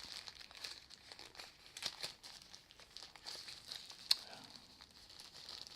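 Handling of packaging while the headphones come out of an HTC One box: scattered crinkling and rustling of plastic wrap, with small clicks and one sharper click about four seconds in.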